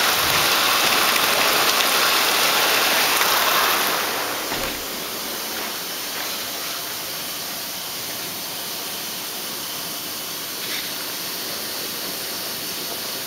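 Heavy rain pouring down, a steady hiss of water that drops noticeably in level about four seconds in, then stays even.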